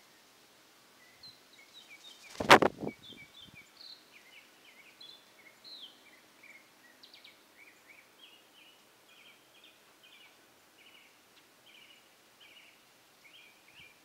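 A songbird singing a long, unbroken run of short, varied, high chirping notes. A single loud knock about two and a half seconds in.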